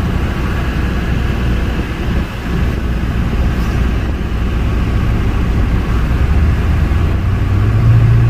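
Car engine and road noise from a vehicle driving in slow traffic, a steady low rumble. A deeper engine hum swells louder near the end.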